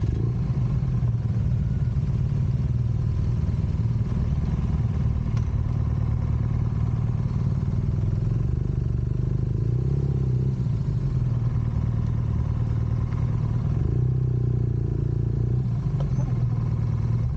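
A vehicle engine and road noise run steadily under way, a constant low rumble with no clear revving or shifts.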